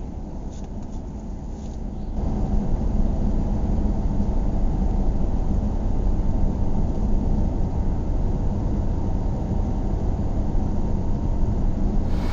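Steady low rumble of a vehicle on the move, growing louder about two seconds in and then holding steady.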